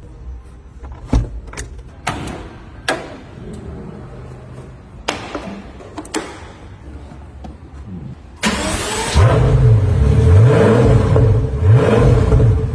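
A few sharp clicks and knocks, then about eight seconds in a car engine starts with a sudden loud burst and is revved in repeated blips, its pitch rising and falling about once a second.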